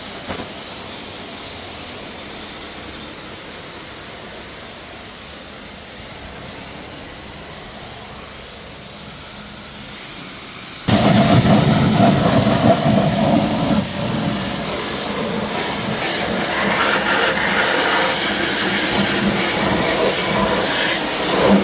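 Pressure washer spraying water: a steady hiss that turns suddenly much louder and rougher about eleven seconds in.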